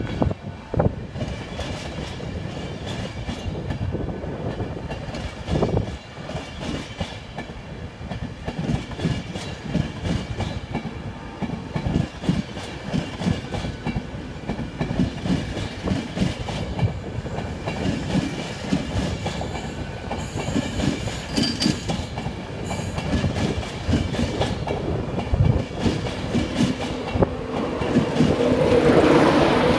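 InterCity 225 train of Mark 4 coaches rolling past, wheels clicking over the rail joints with a steady rumble. It grows louder near the end as the Class 91 electric locomotive at the rear draws near.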